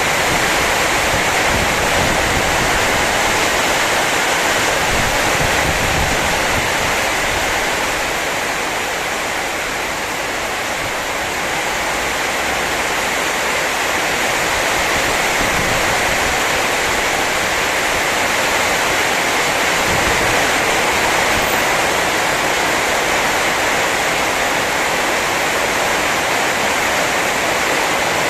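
Heavy rain pouring down in a storm, a loud steady rush that eases slightly about a third of the way through and then builds again.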